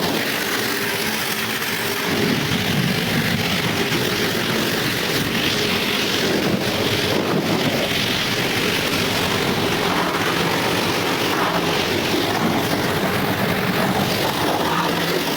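Car-wash equipment running steadily: a motor hum under a loud, even rushing hiss.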